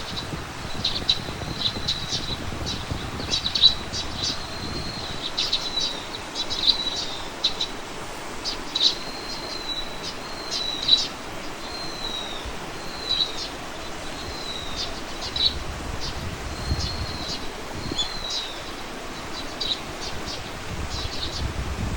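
A songbird calling over and over: short high chirps and brief whistled notes at much the same pitch, a few every second or two. A low rumble comes and goes underneath.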